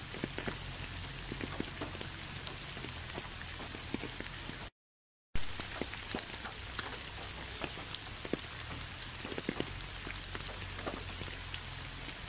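Steady rain falling, an even hiss full of separate drop hits. The sound cuts out completely for about half a second near the middle, then carries on unchanged.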